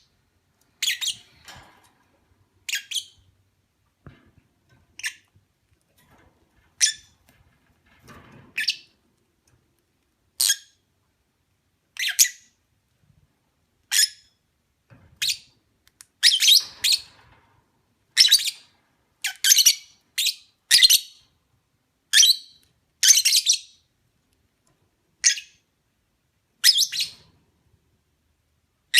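Caged Fischer's lovebirds giving short, shrill, high chirps, one every second or two at first and coming more often in the second half.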